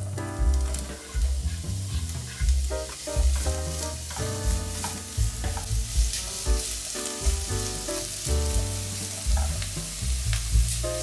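Food sizzling as it fries in a hot pan, a steady hiss with a few small clicks. Background music with a steady beat plays along.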